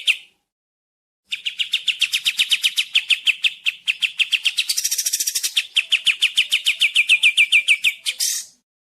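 Pied triller (kapas tembak) singing: a fast, even trill of short downward-slurred notes, about eight a second, in long phrases. The song starts after a pause of about a second, turns harsher and buzzier for a moment about five seconds in, and breaks off near the end.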